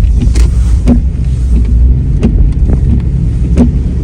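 Steady low road and engine rumble inside a moving car's cabin on a wet road, with a windscreen wiper knocking sharply at regular intervals, three times in four seconds.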